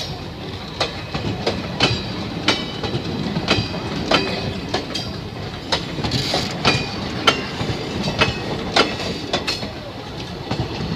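Passenger train coaches rolling past at low speed, their wheels clacking over rail joints about twice a second, over a steady low rumble. Many of the clacks carry a brief high metallic ring.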